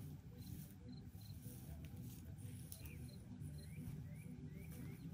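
Faint bird chirps, a few short, sliding calls, more of them in the second half, over a low steady rumble.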